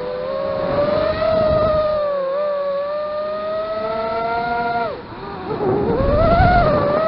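FPV racing quadcopter's brushless motors with tri-blade props whining, the pitch rising and falling with the throttle. The whine drops sharply about five seconds in, then climbs back with a low rumble.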